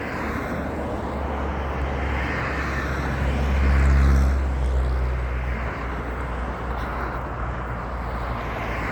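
A passing motor vehicle: a steady rushing rumble with a low engine drone that swells to its loudest about four seconds in and then eases off.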